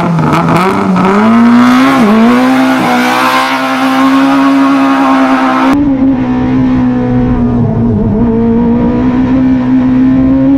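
Renault Maxi Mégane rally kit car running hard at high revs through its straight-cut dog gearbox, the engine note climbing and briefly dipping at quick gearshifts. About six seconds in, the sound abruptly turns duller and holds a steady high-rev drone.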